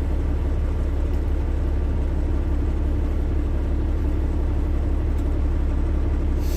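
Dump truck engine running steadily with road noise, an unbroken low drone.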